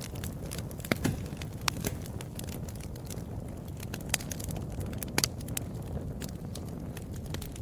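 Wood fire burning in a fireplace: a steady low rumble with sharp crackles and pops at irregular moments, the loudest about a second in and around five seconds in.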